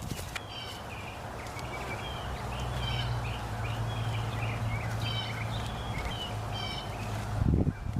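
A small bird chirping over and over in short, high calls, over a steady low hum. A low thump comes near the end.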